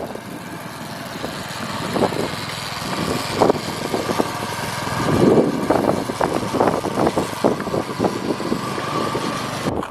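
Motorbike engine running steadily under light throttle as it is ridden along at low speed, with uneven sputtering strokes in the later seconds.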